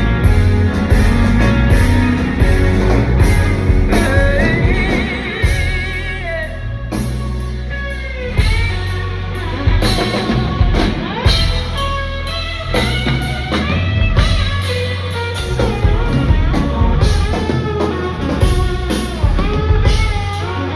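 Rock band playing an instrumental passage: electric guitar lines with bent, wavering notes over drum kit and bass.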